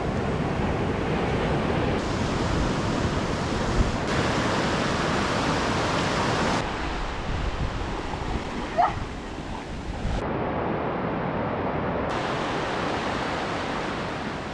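Sea surf washing on a beach, with wind on the microphone, as a steady rushing noise that changes abruptly in tone a few times. A single short rising chirp comes about nine seconds in.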